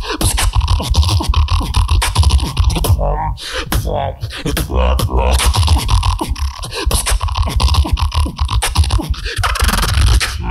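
Solo beatboxer performing a fast routine of deep bass kicks, snares and sharp clicks made with the mouth, with a short break in the beat about three seconds in.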